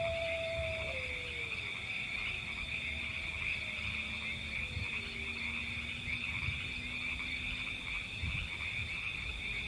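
A chorus of frogs trilling steadily and high-pitched, with low rumbling underneath and a few faint tones gliding downward in the first few seconds.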